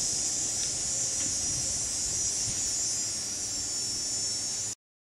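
Steady outdoor background hiss, strongest at high pitch over a faint low rumble, which cuts off abruptly near the end.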